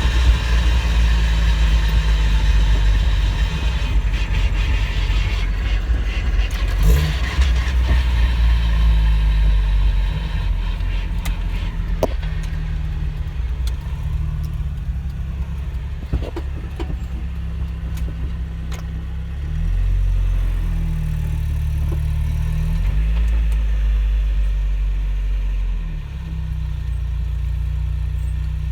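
NA Mazda Miata on the move, its engine and drivetrain running with a strong low drone and road hiss that eases after about ten seconds. In the second half the engine note steps up and down a few times, and a few light clicks come through. The drivetrain noise that started after a differential change, and that a transmission swap did not cure, is the owner's concern.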